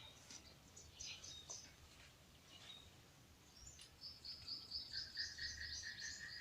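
Faint birdsong: scattered short high chirps, then a long rapid trill held for about two and a half seconds near the end.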